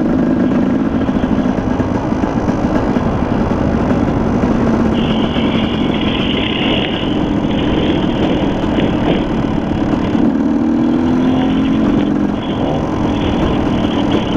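Dirt bike engine running on a trail ride, its pitch rising and falling as the throttle is worked. A high squeal comes and goes from about five seconds in.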